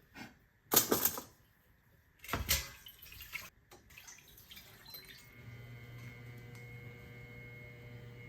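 A few short bursts of kitchen noise in the first three seconds, then a steady low hum with a faint high tone that starts about five seconds in, like a running kitchen appliance.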